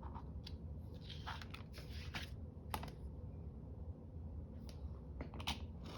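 Scattered light clicks and taps with brief soft paper rustling, as paper is handled and worked by hand.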